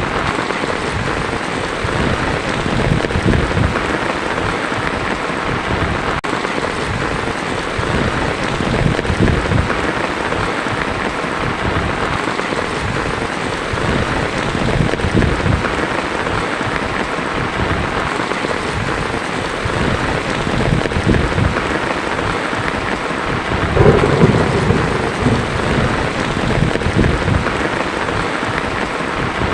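Heavy rain falling steadily on a tin roof, with low rolls of thunder every few seconds; the loudest rumble comes about 24 seconds in.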